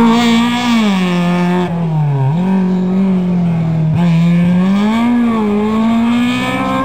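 Small racing hatchback's engine revving hard on a slalom course, its pitch rising and falling again and again as the driver comes off and back onto the throttle, with a deep dip about two seconds in.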